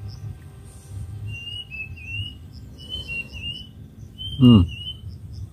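Birds whistling and chirping in short slurred phrases, over a faint high regular ticking and a low rumble. About four and a half seconds in there is one loud, short sound that falls steeply in pitch.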